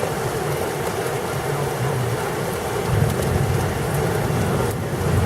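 Steady rain in a thunderstorm, with a low rumble of thunder that swells about three seconds in and again near the end.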